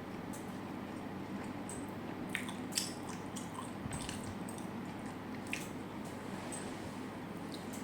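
Close-miked eating sounds: wet, squishy chewing with a few sharp crunchy clicks scattered through, the sharpest a little under three seconds in.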